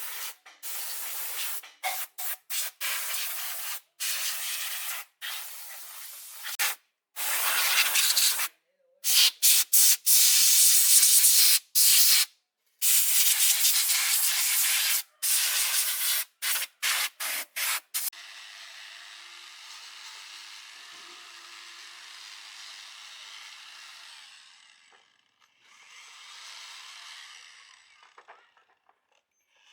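Harsh hissing noise in repeated bursts that start and stop abruptly, loudest in the middle. A quieter, steady hiss follows in the later part.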